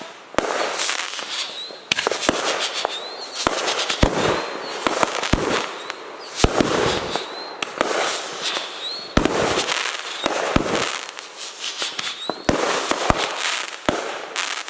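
Fireworks going off one after another: many sharp bangs with dense crackling between them, with no break.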